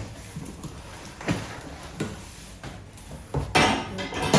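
Handling noises from unboxing a microwave oven: a few light knocks, then a louder scraping rustle of packaging near the end.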